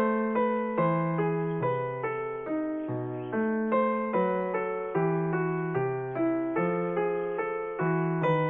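Background piano music: a slow melody of single notes, about two a second, each struck and fading.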